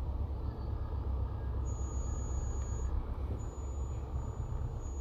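Road and engine noise heard inside a moving Skoda car: a steady low rumble.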